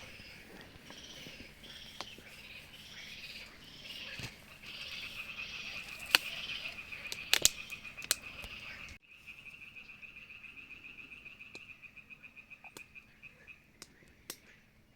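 A chorus of frogs calling in rapid pulsed trills, with a few sharp clicks in the middle. About nine seconds in it cuts to a single steady pulsed trill that fades near the end.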